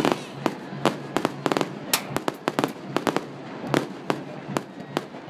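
Fireworks display: aerial shells bursting overhead in a rapid, irregular run of sharp bangs, about four a second.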